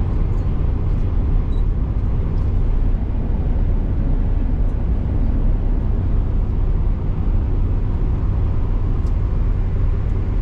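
A vehicle on the move: a steady, loud, low rumble of engine and road noise.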